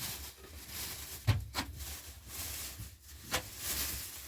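A few sharp knocks or clicks over a faint steady hiss, the loudest a little over a second in and another near three seconds in.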